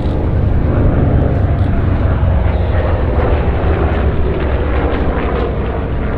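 Grumman F6F Hellcat and F8F Bearcat warbirds passing in formation, their Pratt & Whitney R-2800 radial engines running loud and steady, swelling a little just after the start.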